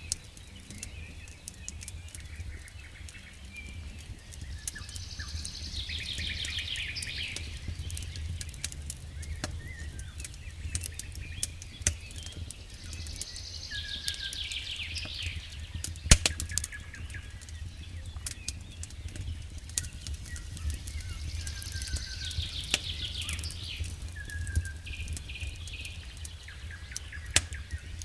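Wood fire crackling with frequent sharp pops, one loud pop about halfway through, over a steady low rumble. A songbird sings a short trilled phrase three times.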